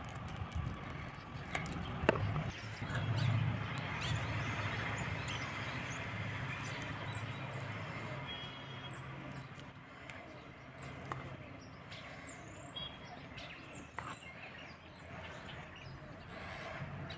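Small bird chirping: short, high chirps every second or two in the second half, over a low rumble of passing traffic that fades out about halfway through. A few light clicks of a metal spoon and knife against a bowl and plate.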